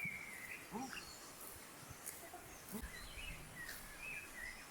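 Paradise shelduck ducklings peeping: a scatter of short, high chirps, some rising and some falling, coming irregularly throughout.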